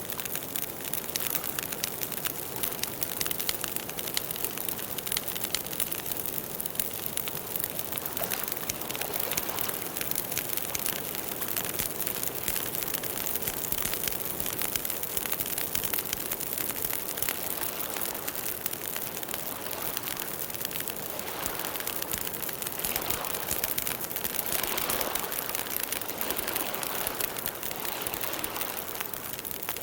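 Campfire burning, the wood crackling in a dense, continuous run of small snaps over a steady hiss, growing a little louder for a few seconds about two-thirds of the way through.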